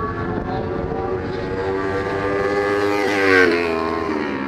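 Racing superbike engine at high revs, growing louder as it nears and passing close about three seconds in, its pitch dropping as it goes by.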